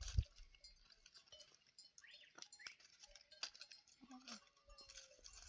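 Flock of sheep and goats, faint, with a short bleat about four seconds in, scattered small clicks and clinks, and a low thump at the start.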